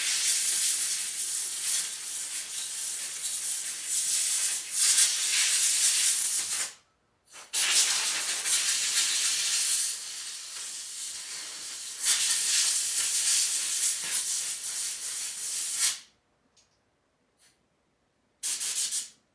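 Compressed air from an air compressor hissing as it blows dirt out of a dirt bike. There is a long blast of about seven seconds, then one of about eight seconds that eases off in the middle, then a short burst near the end.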